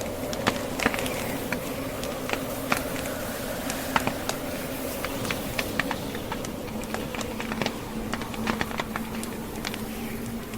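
Wood fire burning in a fireplace, crackling with many small, irregular pops and snaps over a steady, low rush of blizzard wind.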